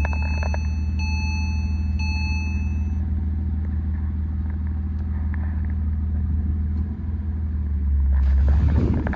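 2005 Porsche Boxster's flat-six idling steadily just after a cold start. A high beep repeats about once a second for the first three seconds. Near the end the engine swells briefly with a rise in pitch.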